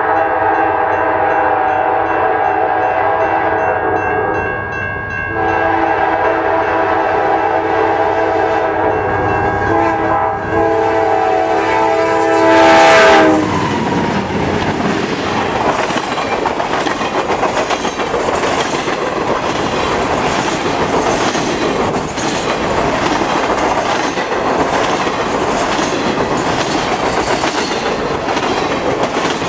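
A Norfolk Southern diesel locomotive's air horn blows several long blasts as it approaches, loudest just before it stops with a drop in pitch as the locomotive passes, about halfway through. Then RoadRailer trailers roll by, their wheels making a steady noise with a regular clickety-clack on the rail joints.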